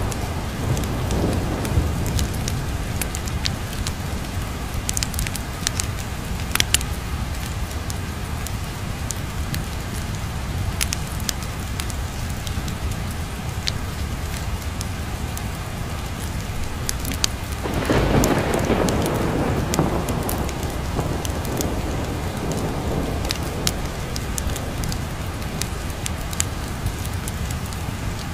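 Steady heavy rain with a low thunder rumble underneath, scattered with sharp crackles. About two-thirds of the way through, a long peal of thunder swells up and rolls away over several seconds.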